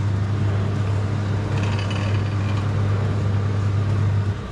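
Steady electric hum of the motor-driven cutaway display of a Tata Nano two-cylinder engine, set running by its push button. It cuts off abruptly near the end.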